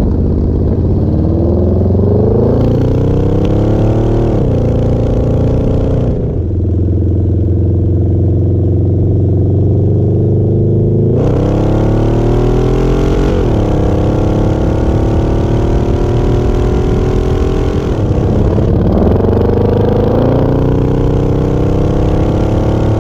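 1968 Dodge Charger's 502 cubic-inch Hemi V8 accelerating: its pitch climbs and falls back sharply at each upshift, about three times, holding steadier revs in between.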